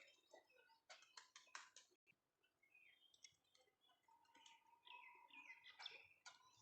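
Faint chirping of small birds. A quick run of sharp clicks comes about a second in, and short calls sliding downward in pitch follow in the second half.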